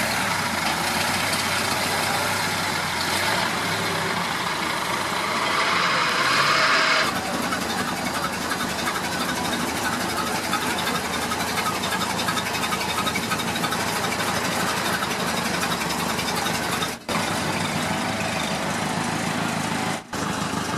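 Car engine running at idle amid general outdoor noise, with a louder stretch that stops abruptly about seven seconds in. Two brief breaks in the sound come near the end.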